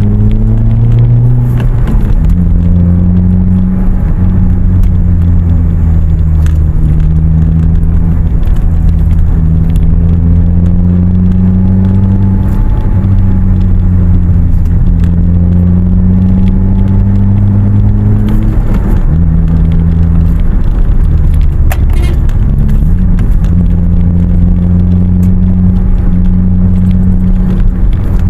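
Toyota Vios's aftermarket bolt-on exhaust with the resonator deleted, droning steadily as the car runs under a steady throttle. The pitch wanders slowly, with a brief change just after the start and a couple more about two-thirds of the way through.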